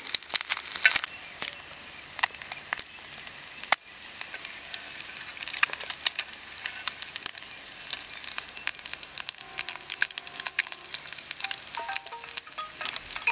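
Masala-coated boiled eggs frying in oil on a dosa tawa: a steady sizzle with frequent sharp crackles and pops of spattering oil.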